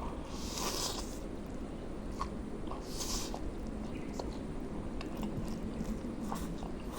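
Person eating instant noodles close to the microphone: chewing and small wet mouth clicks, with two short breathy hisses, about half a second in and about three seconds in, over a steady low background noise.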